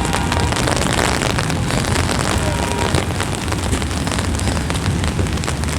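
Heavy rain pattering steadily on an open umbrella, over a steady low rumble.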